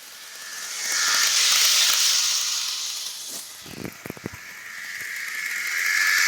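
HO-scale model diesel locomotive and cars running on the track: a hissing rumble of motor and wheels on rails that swells as the train comes close, fades, and swells again near the end, with a quick run of clicks from the wheels near the middle.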